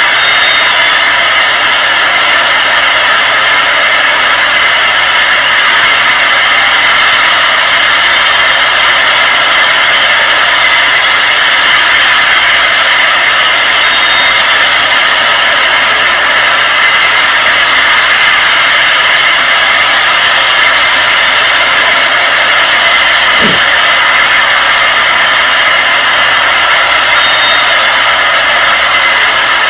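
Loud, steady rushing noise with no change in level throughout, and one brief low sound about 23 seconds in.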